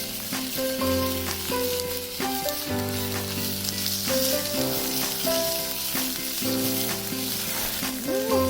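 Food sizzling as it fries in a pan, a steady crackling hiss, under background music with sustained notes.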